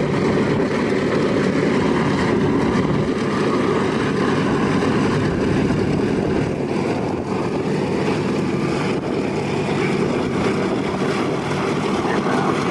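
Piston-engined propeller warbirds flying past with a steady, loud engine drone, dipping slightly a couple of times.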